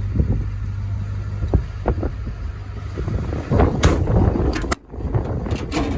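Low, steady rumble of the truck's 6.7-litre Power Stroke V8 diesel idling, with wind buffeting the microphone and a few short knocks in the second half.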